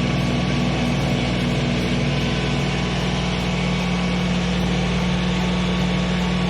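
ISEKI Geas AT340 tractor's diesel engine running steadily at working speed while pulling a rotary puddling harrow through a flooded paddy.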